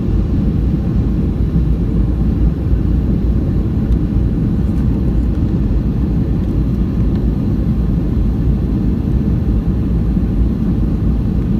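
Steady low cabin roar inside a Boeing 757-200 on approach: engine and airflow noise with the landing gear down and flaps extended.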